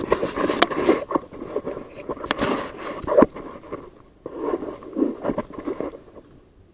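Close rustling and scraping of an airsofter's clothing and gear as he moves, with many sharp clicks and knocks, in two spells: the second starts about four seconds in and stops near the end.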